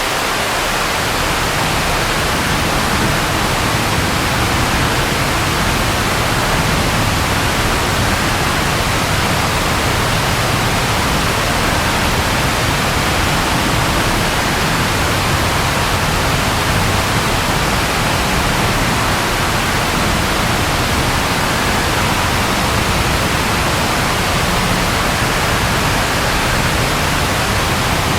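Steady, loud rain: an even hiss with no separate drops or claps. A low rumble comes in underneath just as it begins and holds steady.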